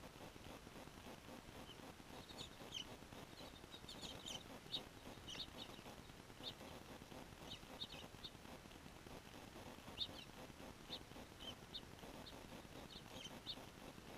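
Small birds giving many short, high chirps at irregular intervals over a faint steady hiss.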